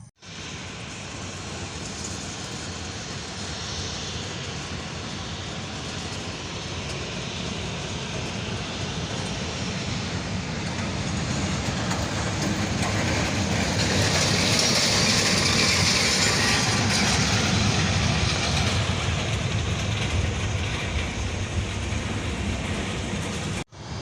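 Airbus A330-300 airliner's jet engines running: a steady engine noise that grows louder to a peak about two-thirds of the way through, sharpest in the hiss at that point, then eases slightly as the aircraft passes.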